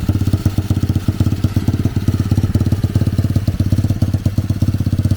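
A 125cc dirt-bike engine on a home-built drift trike idling steadily with a fast, even beat just after starting, not yet warmed up. Loose sheet metal on the frame rattles along with it.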